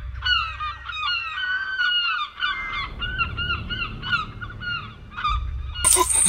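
A flock of birds calling: many short, hooked calls overlapping over a low rumble, until a louder hiss takes over near the end.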